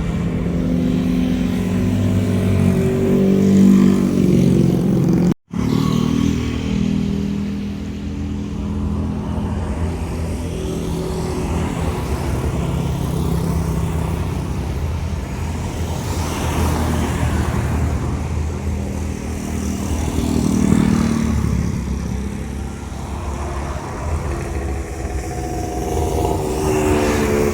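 Jet airliner engines running at takeoff power, a steady loud drone with shifting tones. The sound drops out for an instant about five seconds in and picks up again.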